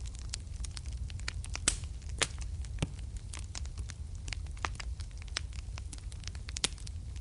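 Wood fire burning in a fireplace, crackling with many irregular sharp pops over a steady low rumble of the flames; the loudest pops come about 2 seconds in and again near the end.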